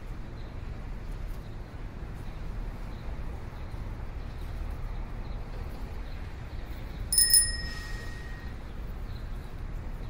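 A single quick ring of a cycle rickshaw's bell about seven seconds in, its tone fading over about a second, over a steady low outdoor rumble.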